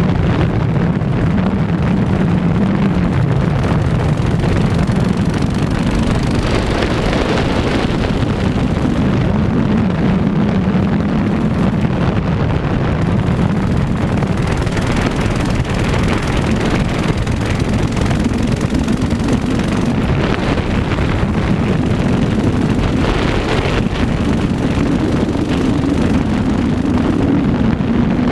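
A mini bike's small engine running steadily under way, its pitch drifting up and down a little with the throttle, with wind buffeting the microphone.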